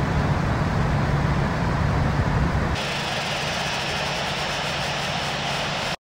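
Airbus A321 jet airliner's engine noise, a steady rumble with a low hum. About three seconds in it changes abruptly to a thinner, hissier steady noise, and it cuts off right at the end.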